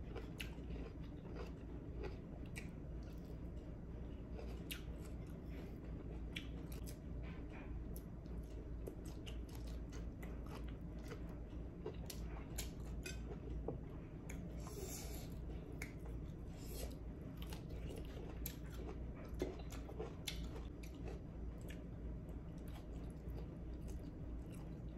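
A person chewing a mouthful of rice and vegetables close to the microphone, with many small mouth clicks throughout and a brief hiss about fifteen seconds in, over a steady low hum.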